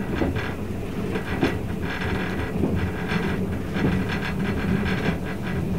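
Running noise of the Twilight Express sleeper train heard inside a passenger coach: a steady rumble of wheels on rails, with a few irregular sharp clicks from the track.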